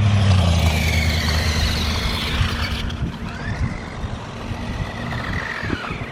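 Remote-control truck's motor whining, rising and falling in pitch twice as it speeds up and slows down. A louder low hum fades away over the first two seconds.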